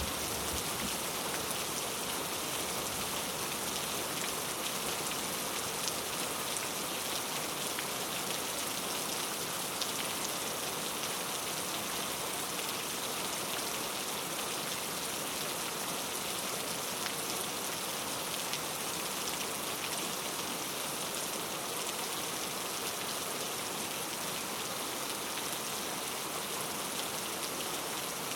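Steady rainfall in a rainforest: an even hiss of rain with scattered individual drops pattering on surfaces.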